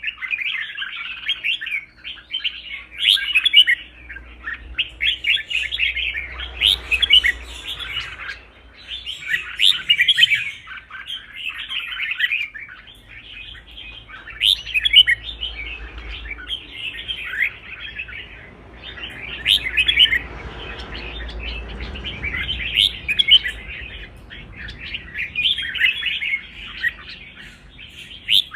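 Red-whiskered bulbul singing: a long run of quick, chirpy warbled phrases, each a second or two long, with brief pauses between them.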